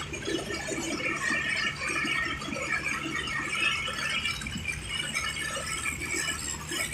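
Tractor running steadily while driving, with a continuous low engine drone under a jumble of rattling and squealing.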